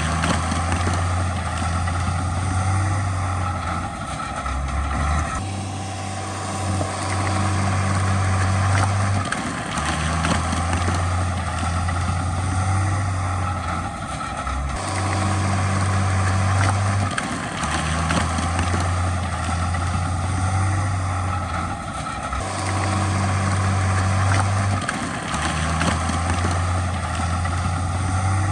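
Heavy diesel earthmoving machinery running, a low engine drone that steps on and off every few seconds over a constant clattering, mechanical noise.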